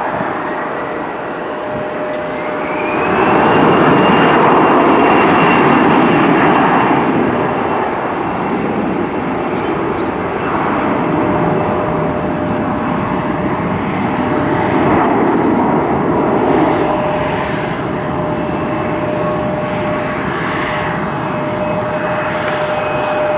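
Jet airliner engines running, with a steady whine under a broad rush. About two to three seconds in, a higher whine climbs in pitch and the noise grows louder, then holds.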